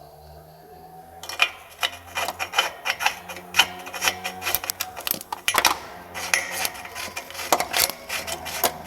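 Hand tools scraping and clicking in quick, irregular strokes on oxygen sensor wiring, starting about a second in.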